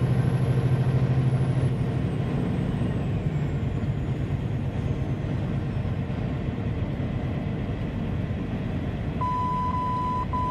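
Vehicle running along a highway: steady engine and road noise with a low hum, and a faint high whine that slides down in pitch over the first few seconds. About a second before the end, a high beeping starts, beeps about half a second long with short gaps.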